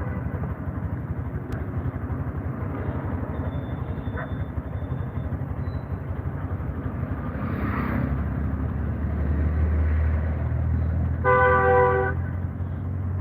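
Road traffic with a steady low engine rumble that grows louder in the second half, and one short vehicle horn honk near the end.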